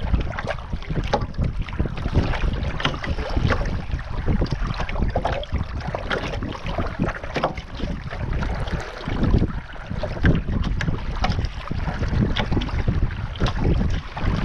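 Wind buffeting the microphone over water lapping and splashing against a sailing canoe's hull.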